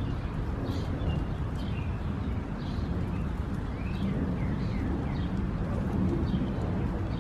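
Small birds chirping in short repeated calls over a steady low rumble.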